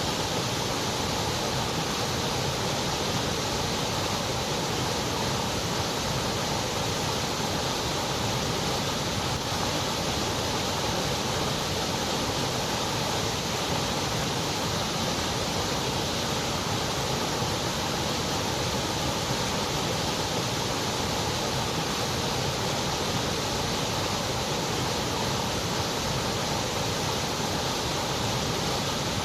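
Continuous white noise: an even, steady hiss that never changes in level or colour.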